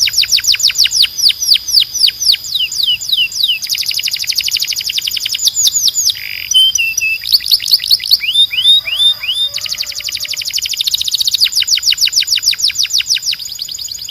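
Canary singing: rolls of fast, downward-sweeping notes repeated several times a second, the phrase changing every few seconds, over a steady high tone.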